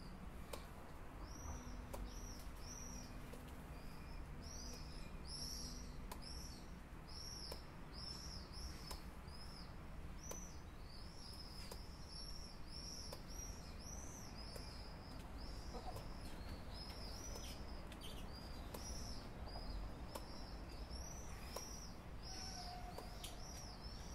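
A bird chirping over and over in a quick series of short high chirps, about two or three a second, with faint low background noise underneath.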